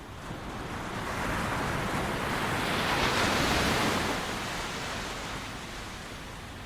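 Ocean waves breaking on a beach: one wave's wash swells to a peak about three seconds in, then slowly recedes.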